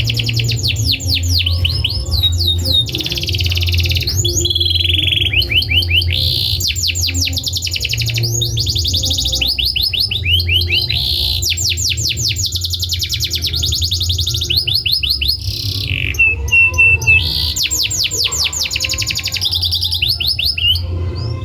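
Domestic canary singing a continuous song of fast trills, each a rapid run of repeated sweeping chirps, switching from one trill to the next every second or two, with a steady low hum underneath.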